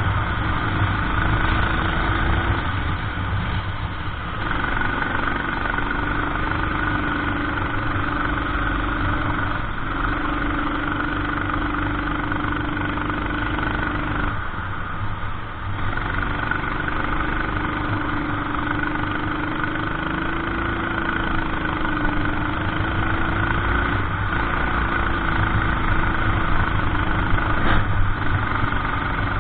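Racing kart engine running at speed, its pitch wavering up and down, with two short drops in the engine note: one about three seconds in and one around fifteen seconds.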